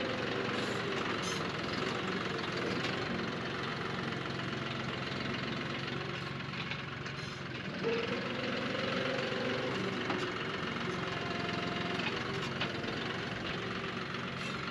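John Deere 5055E tractor's diesel engine running steadily, its note swelling and easing back about eight seconds in.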